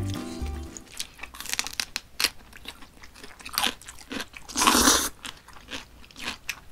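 Close-up eating sounds: crunchy bites and chewing of radish kimchi, a string of sharp crunches with the loudest, longest crunch just before five seconds in.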